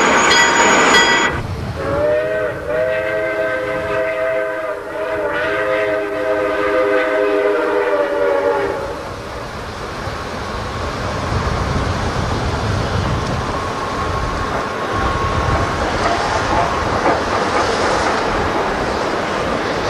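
Steam locomotive whistles: a short high-pitched whistle that stops about a second in, then a long, lower chime whistle of several tones held for about seven seconds. After it, the train runs on with steady rumbling and clattering.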